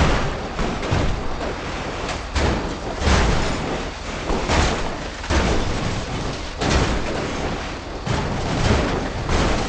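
A series of heavy thuds and bangs, roughly one a second, over a rumbling noise.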